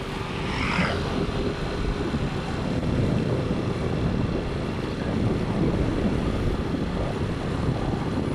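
A vehicle on the move: a steady low rumble of engine, tyres and wind.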